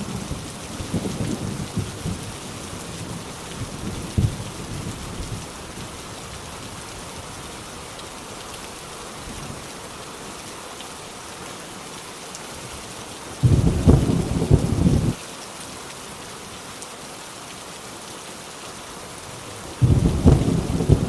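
Heavy rain drumming steadily on a rusty tin roof, with thunder: a rumble fading away over the first few seconds, a short loud clap about thirteen seconds in, and another starting near the end.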